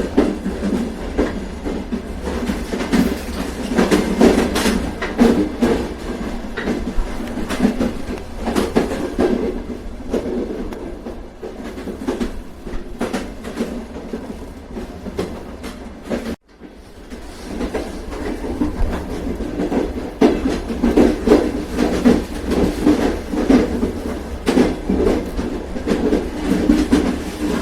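Train running along the track: a steady low rumble with irregular clickety-clack of wheels passing over rail joints. The sound cuts out for a split second about two-thirds of the way through and fades straight back in.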